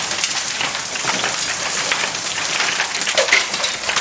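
Hailstorm: a dense, steady clatter of hailstones striking the ground and house, with many sharp individual hits and a few louder strikes near the end.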